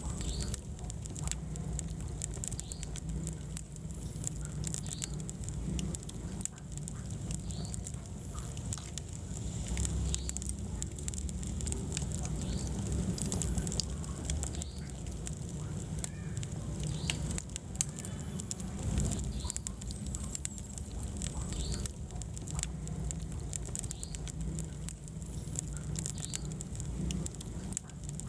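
Wood fire burning in a fireplace, with many small crackles and pops scattered irregularly over a steady low rumble of flame.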